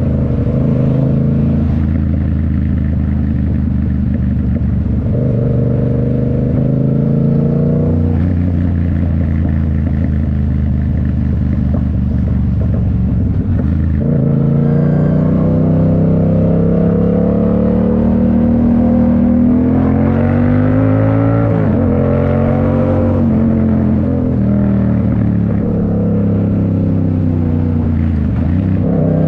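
2019 Yamaha MT-07's parallel-twin engine through a Toce full exhaust, heard while riding. It holds fairly steady speeds for the first stretch. From about halfway it accelerates, its pitch climbing and then dropping sharply at each of several upshifts.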